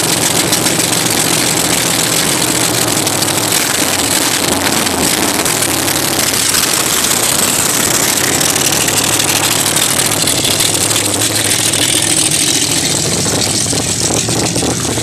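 Dirt-track race car's engine running loud and steady through open headers, easing off slightly near the end.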